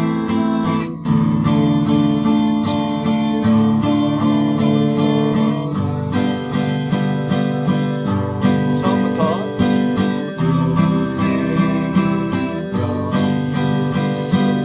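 Acoustic guitar strummed in a waltz rhythm in three: a stroke on the low bass strings followed by quicker strokes on the high strings, repeating evenly as the chords change.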